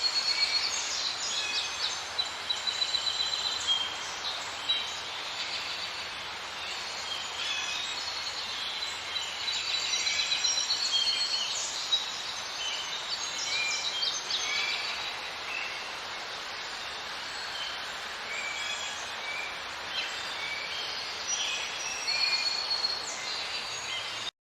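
A dense chorus of many small birds chirping and whistling over a steady background hiss, as in a wildlife ambience recording. It cuts in and out abruptly.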